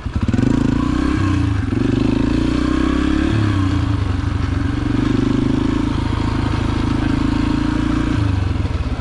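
Yamaha TT-R125's single-cylinder four-stroke engine pulling under throttle as the dirt bike rides along. The engine note jumps up just after the start, rises and falls a few times, and drops back near the end.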